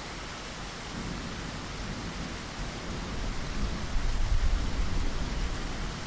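Steady rain falling, with a low rumble of thunder that swells about four seconds in and fades away near the end.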